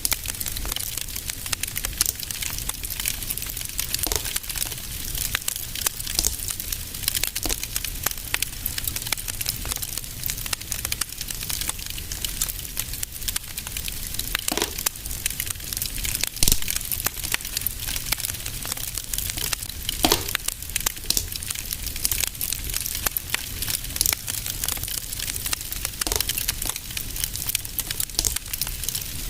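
Fireplace fire crackling steadily, with many small pops and a few louder snaps, over a low rumble.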